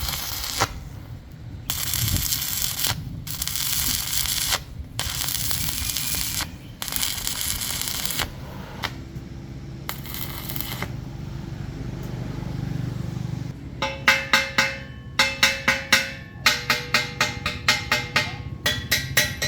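Short bursts of rasping work noise, each about a second long with pauses between. About two-thirds of the way in, music with quick, sharply struck percussive notes comes in.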